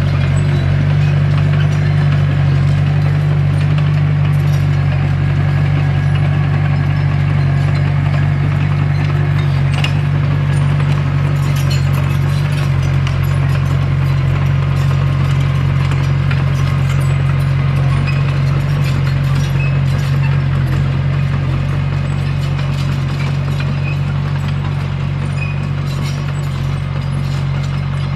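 Komatsu D21P bulldozer's diesel engine running steadily, with faint light clicks over the top.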